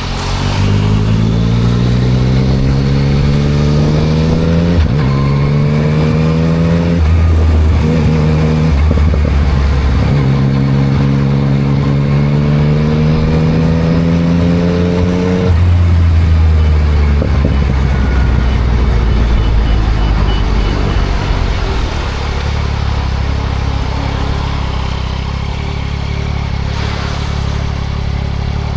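2024 Yamaha MT-09 SP's inline-three engine through a Spark triple-exit full exhaust, accelerating with rising pitch and upshifting about five and seven seconds in. It pulls up through the revs again, eases off about halfway through, and settles to a steady lower note near the end.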